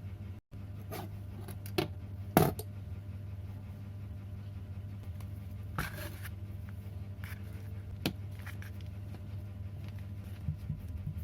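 Scattered small knocks, clicks and scrapes of objects being handled, over a steady low hum.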